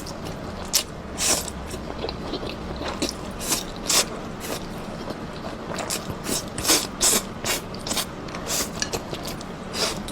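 Close-miked eating: a person biting and chewing crunchy food, heard as many short, irregular crisp crackles.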